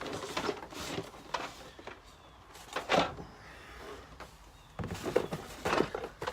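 Cardboard boxes being handled, shuffled and set down: a series of knocks, scuffs and rustles, loudest about three seconds in and again near the end.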